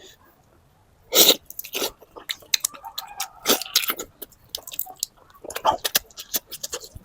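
Close-up eating sounds: wet chewing and mouth clicks, with several louder sharp bursts from the mouth.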